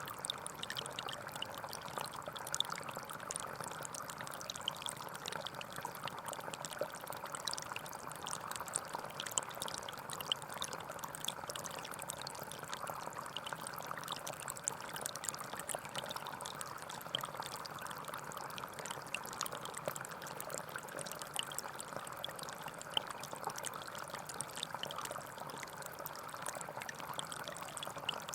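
Gentle forest stream flowing: a steady burble of running water with many small splashes and drips.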